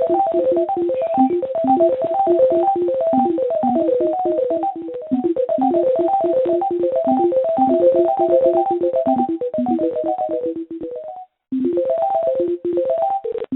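Rapid string of short electronic synth-like beeps jumping between a few pitches, several notes a second, heard over a phone line. The notes break off for a moment about eleven seconds in.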